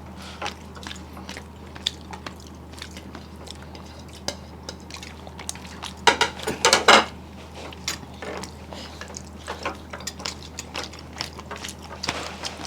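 Eating sounds at a meal of steamed hilsa and rice: small clicks and wet mouth and plate noises, with a louder stretch about six seconds in, over a steady low hum.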